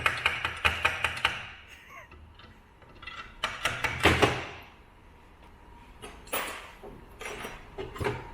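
Rapid hammer taps on metal, about six a second, stopping about a second in, as a piston jammed in the bore of a blown CBR engine is driven out. Then a louder metal clatter around four seconds, and a few knocks near the end.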